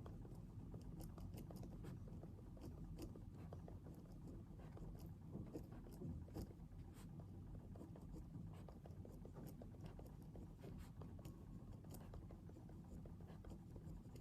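Faint pen or pencil writing on paper: scattered small scratches and ticks over a low, steady room hum.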